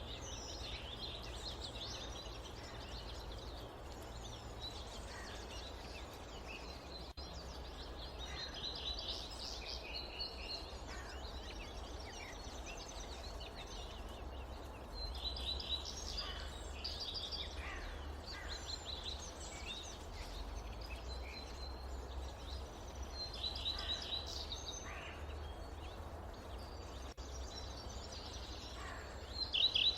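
Forest birds singing, bursts of quick chirps that come in clusters every few seconds, over a steady low rumble.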